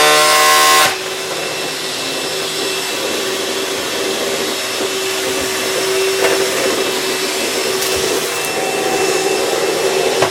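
Household vacuum cleaner running steadily, a constant rushing noise with a steady hum. A louder, higher whining tone cuts off sharply about a second in.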